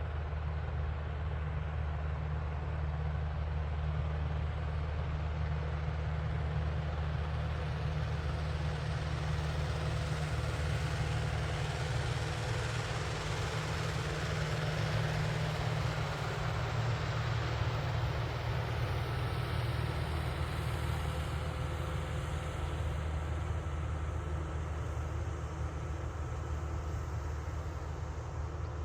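Tractor engine running steadily under a constant low hum, with a rushing noise that swells for a while in the middle and then eases.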